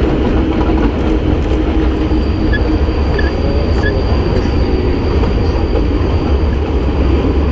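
Kurobe Gorge Railway's narrow-gauge train running, heard from an open-sided carriage: a steady loud rumble of wheels on rail. A faint high wheel squeal comes in about two seconds in and holds.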